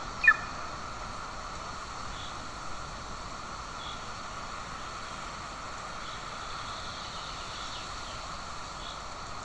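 Steady outdoor background hiss, with a few faint, distant bird chirps scattered through it. One short, loud bird call sounds right at the start.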